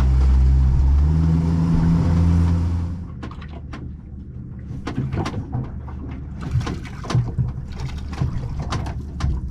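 Small boat's engine running with a steady low hum, its pitch rising a little about a second in. About three seconds in it gives way suddenly to a quieter stretch of scattered clicks and knocks.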